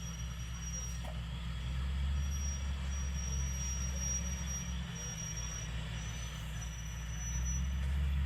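Heavy road-construction machine's diesel engine running steadily with a deep rumble, and a thin high whine that keeps breaking off and coming back.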